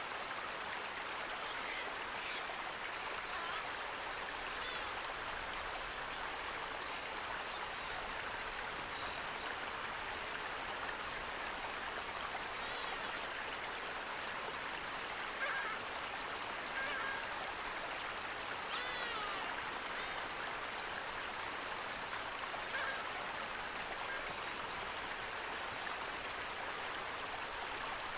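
Stream water running steadily, with a few short bird calls here and there, the loudest just past the middle.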